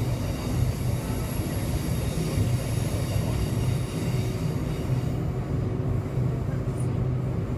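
Electric suburban train running, heard from inside the carriage: a steady rumble of the wheels on the track, with faint high steady tones that fade out about five seconds in.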